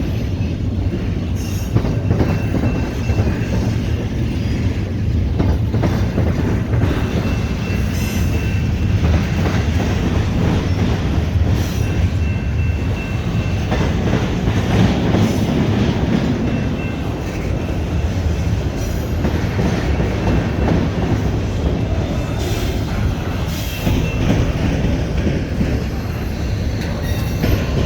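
Freight train rolling past at close range: a steady rumble of wheels and cars, with irregular clacks over rail joints and a faint, high wheel squeal that comes and goes.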